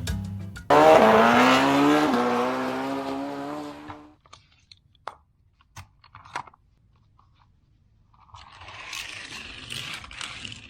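A vehicle-engine sound effect starts suddenly about a second in, with a pitch that climbs and then drops a step, and fades out by about four seconds in. A few light clicks follow, and near the end comes a short stretch of rustling, scraping noise.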